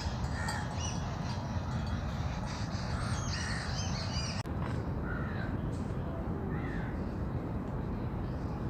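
Birds calling in short repeated calls, among them crows cawing, over a steady low rumble.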